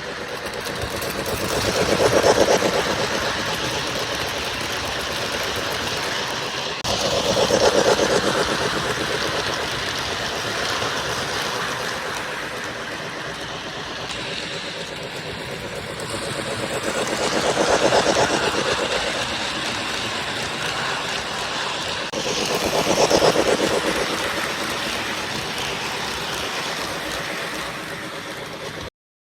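O gauge Lionel LionChief Plus 4-6-4 Hudson model steam locomotive and passenger cars running on track, a steady rolling rumble that swells four times as the train comes past close by. The sound cuts off suddenly near the end.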